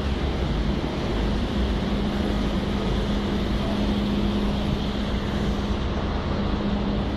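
Steady rushing noise of a vehicle in motion heard from inside, with a constant low hum running under it.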